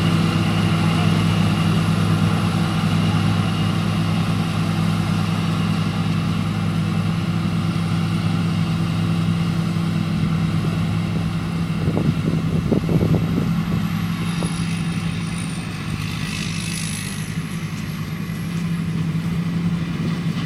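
Rice combine harvester's engine running steadily at a constant speed.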